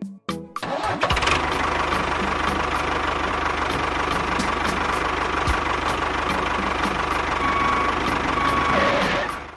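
An engine or motor running steadily, starting about a second in and cutting off near the end.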